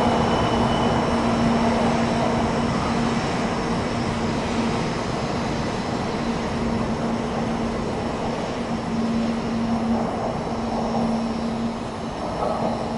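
Shinkansen train running on the main line: a steady rushing noise with a held low hum, slowly growing quieter.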